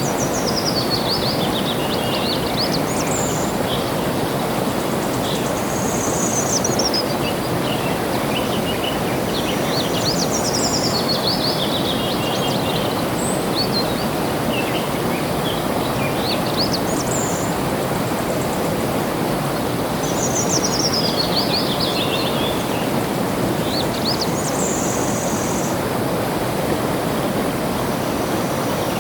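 Steady rush of flowing water with a songbird singing over it. The bird gives short high phrases every few seconds, many of them quick trills that fall in pitch.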